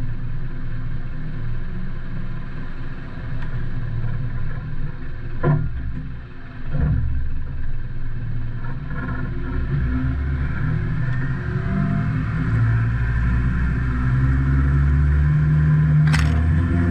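Isuzu NPS truck's diesel engine running as the truck drives, dipping about six seconds in and then running louder and steady. Two short knocks sound through it.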